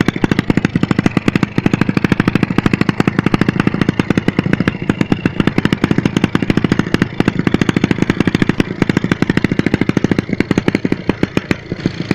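Honda GL motorcycle's single-cylinder four-stroke engine running at a steady speed, its exhaust a loud, fast and even rumble of pulses.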